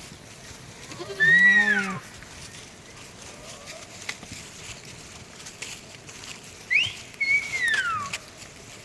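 Sheep bleating in two separate calls. The first, about a second in, lasts under a second. The second, near the end, starts high and falls steadily in pitch.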